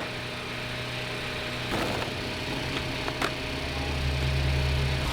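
Car engine idling with a steady low hum that grows louder near the end, with a couple of short knocks along the way.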